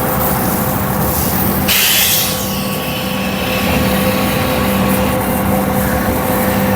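Heavy diesel engines of concrete trucks running steadily at the building site, with a brief, sharp hiss about two seconds in.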